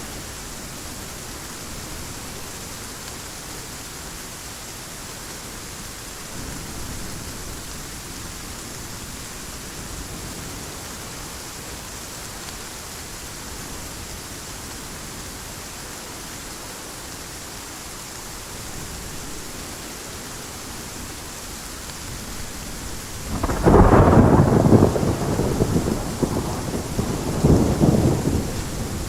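Heavy rain falling in a steady hiss; about 23 seconds in, a loud clap of thunder breaks out and rolls on in rumbling waves over the rain.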